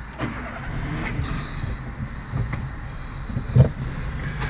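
Car engine running with a steady low rumble, with a few light clicks and knocks.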